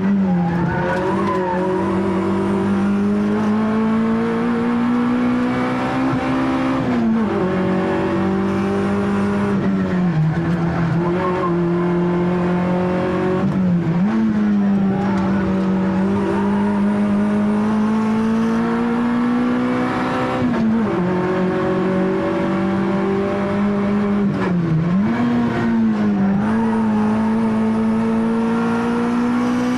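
Peugeot 106 Rallye's four-cylinder engine heard from inside the cabin at full race pace up a hillclimb, held high in the revs and climbing slowly under load. The engine note drops sharply and picks up again about five or six times as the driver works through the gears and bends.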